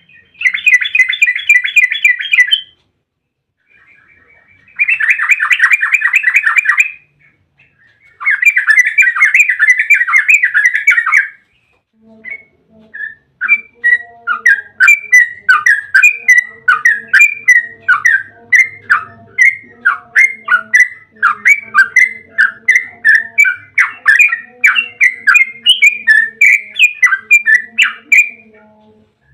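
Yellow-vented bulbul song, the long rolling 'ropel' used as a lure: three fast trills of about two to three seconds each, then a long run of quick chattering notes at about three to four a second.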